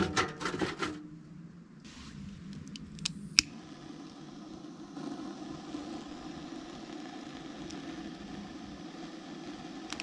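Wood fire burning in a fire pit under a cooker, a steady hiss with two sharp crackles a little after three seconds in.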